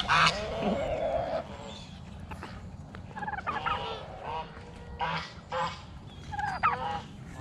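Barnyard poultry calling, mostly domestic geese honking: one loud call right at the start, then several more honks spaced a second or two apart.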